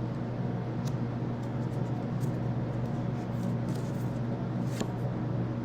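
Steady hum and hiss of a room heating and cooling fan running, with a few faint light ticks about four seconds in.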